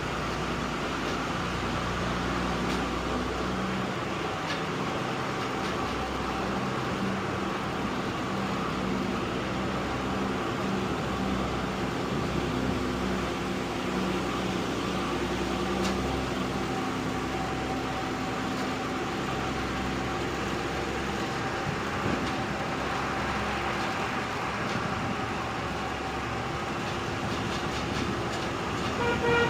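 Truck's diesel engine running steadily under way, with road and drivetrain noise.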